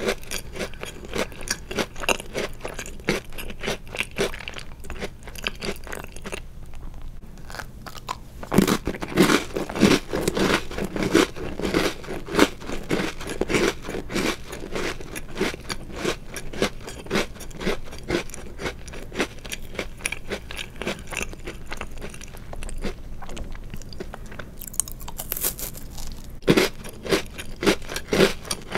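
Close-miked eating of chocolate-covered Oreo cookies: crisp crunching and chewing in a steady run of small crackles. It quietens briefly about a quarter of the way in, then louder crunching bites come about a third of the way in and again near the end.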